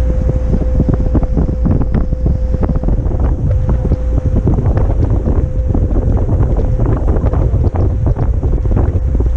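Heavy wind buffeting the camera microphone on a motor yacht under way, crackling constantly over a low rumble. A steady hum runs underneath.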